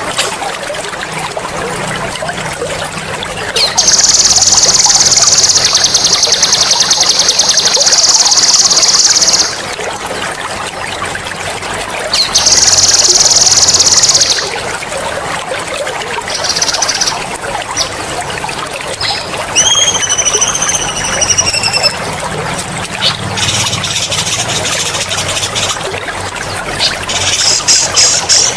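Songbird singing loud, sharp rolling trills ('ngerol'), a long rapid trill of about six seconds and another of about two, then shorter trill bursts and a couple of falling whistled notes, over steadily trickling water.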